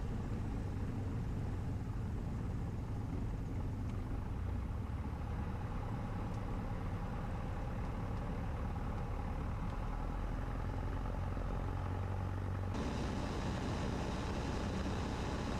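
Cessna 150's four-cylinder Continental O-200 engine running steadily in flight, a low drone with propeller hum heard inside the cabin. About 13 s in the sound turns abruptly brighter, with more hiss.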